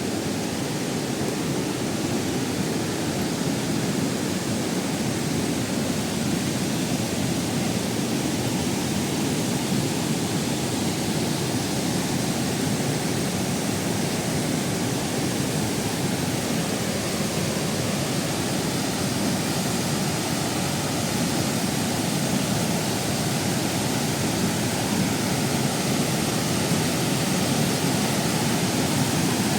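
Waterfall water rushing in a steady, even roar of noise that does not change.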